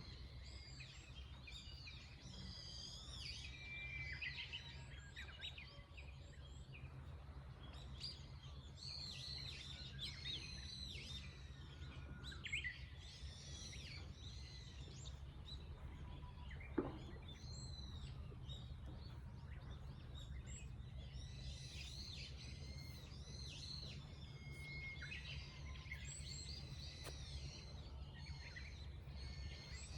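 Several small birds chirping and singing, their short calls overlapping throughout, over a steady low background rumble. A single sharp click sounds a little past halfway.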